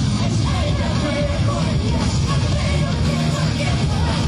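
Loud live band music through a concert sound system: an up-tempo pop-rock song with a female lead vocal.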